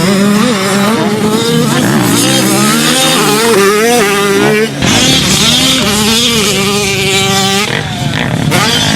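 A 250 cc two-stroke motocross bike engine revving hard, its pitch climbing and dropping again and again under the throttle. The sound changes abruptly about five seconds in.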